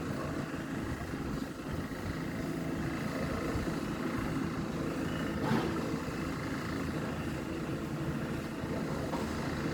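Steady low engine rumble from heavy machinery or vehicles, with a brief louder knock or clank about halfway through.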